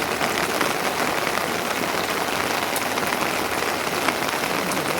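Steady rain falling: an even, dense hiss of drops with a few sharper ticks.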